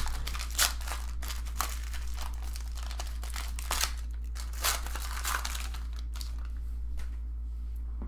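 Trading card pack wrappers crinkling and tearing, with cards being handled in short irregular rustles that die away near the end. A steady low electrical hum runs underneath.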